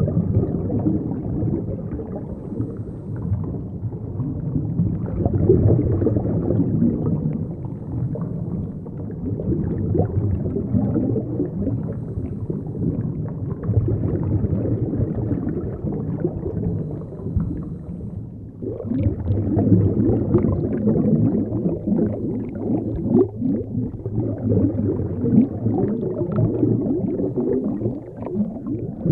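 Underwater ambience: a continuous low rumbling and bubbling gurgle with a dense crackle, briefly dropping away about two-thirds through and then resuming.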